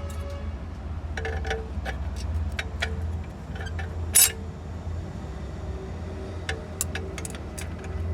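Metal transmission parts clinking and knocking as they are handled and fitted, in a dozen or so sharp clicks with one louder knock about four seconds in, over a steady low hum.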